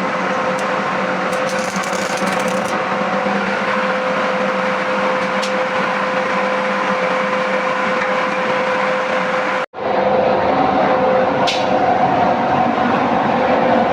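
Angle grinder running steadily under load, cutting metal for a belt frame. A steady motor tone sits under the grinding noise. The sound cuts out for an instant about ten seconds in, then resumes at a slightly different pitch.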